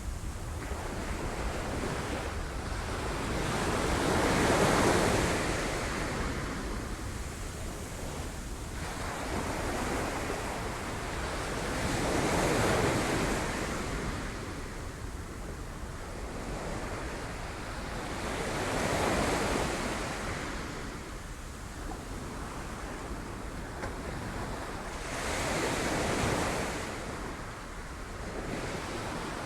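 Sea waves breaking on rocks: the surf swells to a crash four times, about every seven seconds, each time falling back to a steady wash of water.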